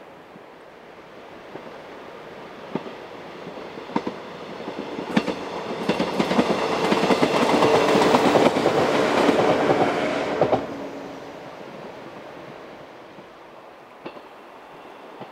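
A 115-series electric multiple unit passing by. Its wheels click over the rail joints as it comes near, and the sound builds to a loud pass with a steady drone from about six to ten seconds in. It then drops away sharply as the train goes by.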